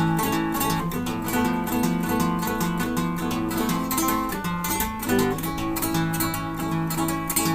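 Solo acoustic guitar played fingerstyle: a steady stream of plucked notes over moving bass notes, with the bass shifting about halfway through.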